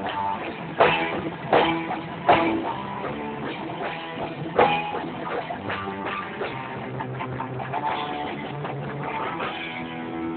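Rock band playing live, heard through a phone's recording: electric guitar and drum kit, with loud accented hits about a second in, twice more in the next two seconds and again at about five seconds. Near the end a guitar chord rings on.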